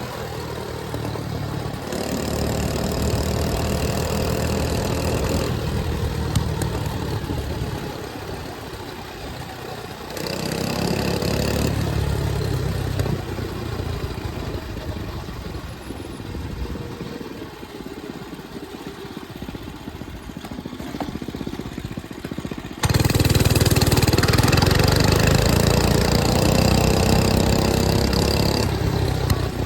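105cc mini bike engine running under way, climbing in pitch as it accelerates several times and easing off in between. A sudden, louder stretch of hard acceleration comes about two-thirds of the way through.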